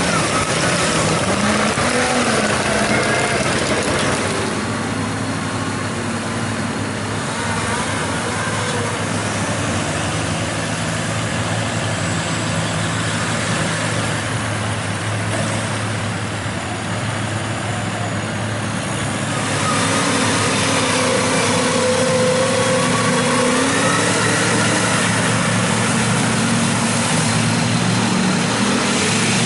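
Big diesel mud truck engines running, the engine note wavering up and down in pitch. The sound is somewhat louder at the start and again from about twenty seconds in.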